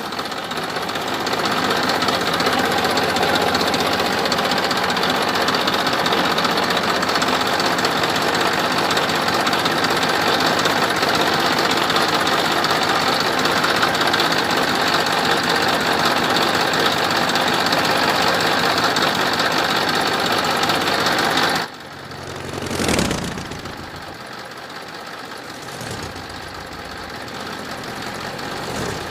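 Vehicle engine running steadily and loudly for about twenty seconds, then cutting off suddenly to a quieter engine idling, with a brief swell of noise just after the cut.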